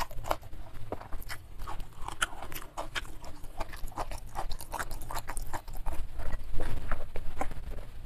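Close-miked mouth sounds of chewing a mouthful of fried chicken and rice, full of wet clicks and smacks, then gulping water from a glass mug, which grows louder in the last couple of seconds.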